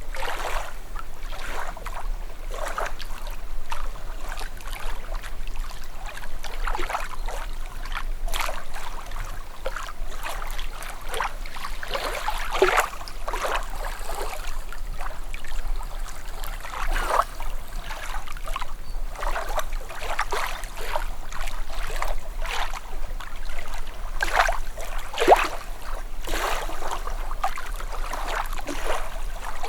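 Calm sea at the shore: small waves lapping and splashing in irregular little washes, with trickling water between them.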